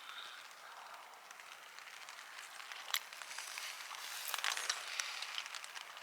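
Steady rain pattering on tent fabric, a light even hiss with scattered small ticks and one sharp click about three seconds in, growing a little louder near the end.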